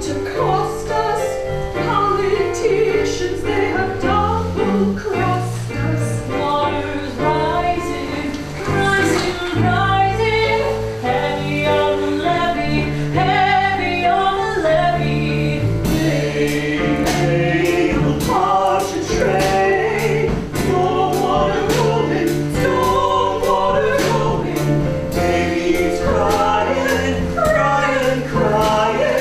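Musical theatre ensemble of female and male voices singing a gospel-style song over instrumental accompaniment with a steady bass line; sharp percussive hits come in about halfway through.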